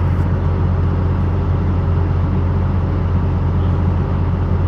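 Steady low drone of a vehicle driving along a highway: engine and tyre noise that does not change.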